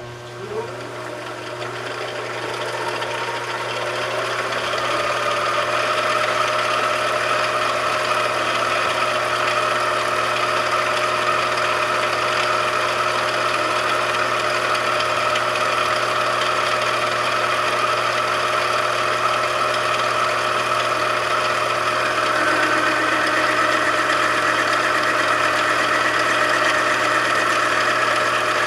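A machine tool's electric motor switched on with a click, spinning up over the first few seconds and then running at a steady hum. About three-quarters of the way through, the tone of the hum shifts slightly.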